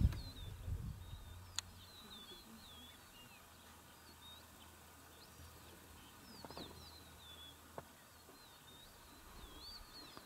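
Small birds chirping, with many quick rising and falling high notes through the whole stretch. A low rumble sounds in the first second, and a faint low hum runs underneath until near the end.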